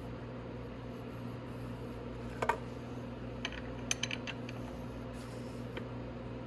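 A few light metallic clicks and clinks of bolts and hand tools as 13 mm bolts go into the ATV's footwell: one about two and a half seconds in, then a short cluster around four seconds in, over a steady low hum.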